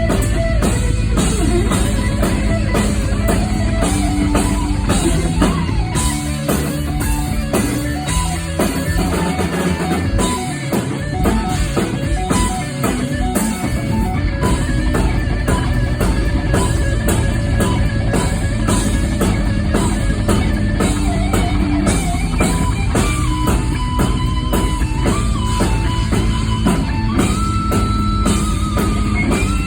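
A live rock band playing loud, distorted electric guitar over a drum kit, with fast, steady drumming and sustained guitar lead notes. The low end drops out briefly partway through.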